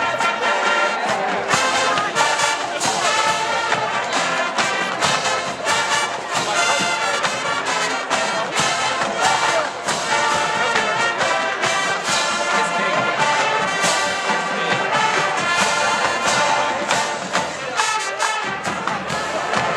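Marching band playing a brass arrangement: trumpets and trombones carry the tune over steady marching drums.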